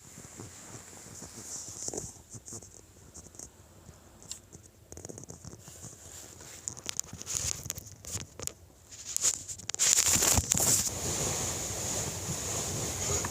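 Faint, irregular popping clicks, the unidentified 'pako pako' noise from the balcony that the recorder takes for a neighbour's deliberate harassment. About ten seconds in, wind noise on the microphone rises, with a few sharper clicks.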